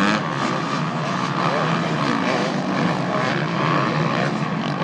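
Several racing off-road motorcycle engines running together, their pitches rising and falling as the riders work the throttles.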